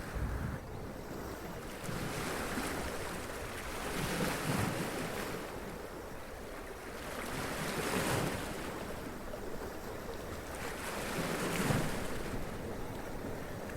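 Sea waves washing up onto rocks and splashing, a steady wash of surf that swells with each wave about every four seconds.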